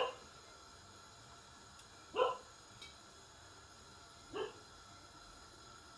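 Three short barks about two seconds apart, each rising quickly in pitch.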